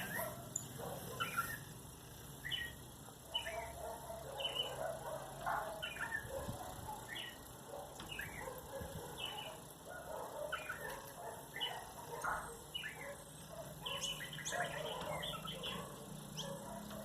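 Pet cardinal giving short, sharp chirps that slide downward, repeated about once a second, with softer lower-pitched calls mixed in.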